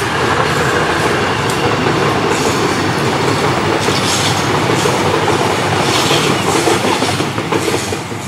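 Diesel-electric multiple-unit airport train passing close by, with a loud, steady rolling rumble and repeated clicks of its wheels over the rail joints. The noise eases slightly near the end as the cars go by.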